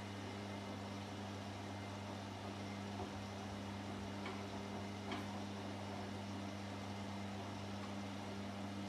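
Washing machine running with a steady low hum, with a few faint ticks a few seconds in.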